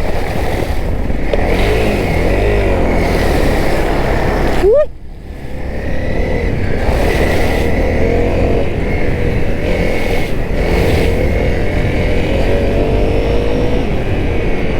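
Honda CRF250L's single-cylinder four-stroke engine running while riding. Its pitch wavers in the first few seconds, then about five seconds in the revs climb sharply and the sound drops off suddenly as the throttle is shut, before steady running resumes.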